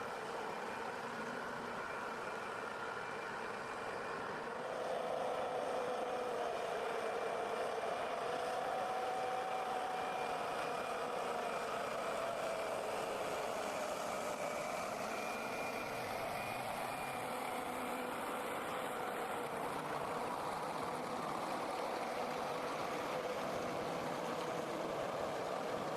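Loaded forestry forwarder's diesel engine running steadily as it drives, with a whine over the drone; it grows louder and rises a little in pitch about five seconds in.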